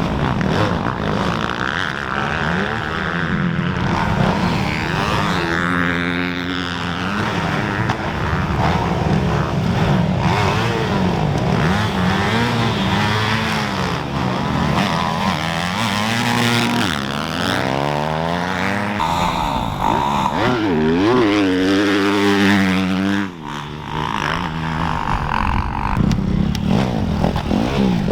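Off-road dirt bike engines racing, the pitch climbing and dropping again and again as the riders rev through the gears and back off. Near the end the sound drops briefly before picking up again.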